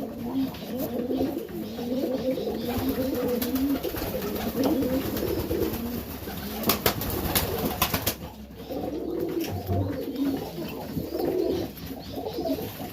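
Serbian Highflyer pigeons cooing, overlapping, wavering calls that go on almost without a break, with a few sharp clicks about halfway through.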